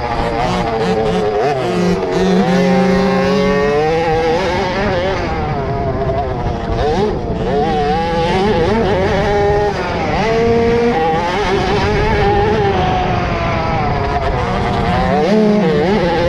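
Small 50cc two-stroke motocross bike engines revving up and down repeatedly as they race, with more than one engine heard at once.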